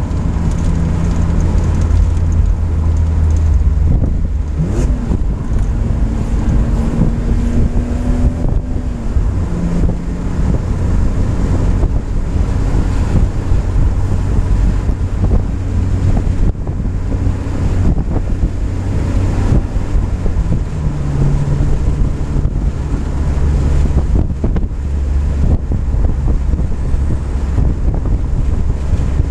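BMW M3's engine running at road speed, heard from inside the cabin under a heavy rumble of tyre and wind noise; the engine note changes pitch a few times as the car speeds up and eases off.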